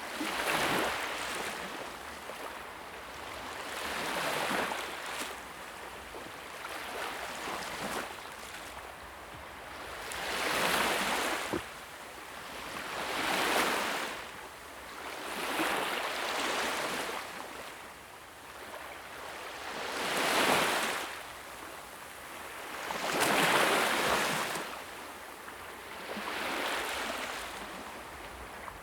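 A rushing hiss that swells and fades in waves about every two to three seconds, with an occasional faint crackle.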